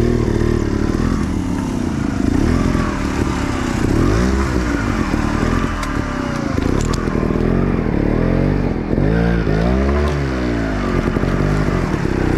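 Dirt bike engine revved up and down over and over as the rider works the throttle on rough ground. A few sharp clicks come a little past halfway.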